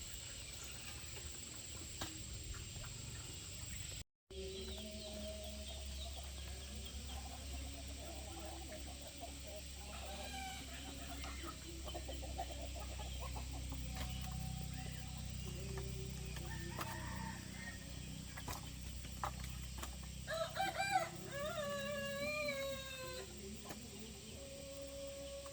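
Chickens clucking, with a rooster crowing once about three quarters of the way through.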